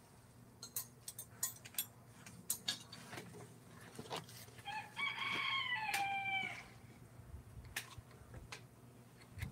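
A rooster crowing once, a call of nearly two seconds that rises and then drops, with a few sharp clicks or taps before it.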